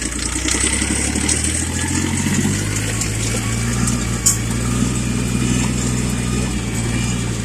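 Small tractor's diesel engine running in high gear while pulling a drag through snow and slush, rising in speed about two seconds in and then holding steady. A single sharp click about halfway through.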